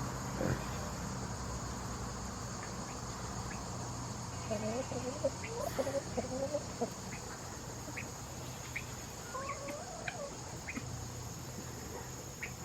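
Chickens clucking softly in two short runs of wavering calls, over a steady high buzz of insects.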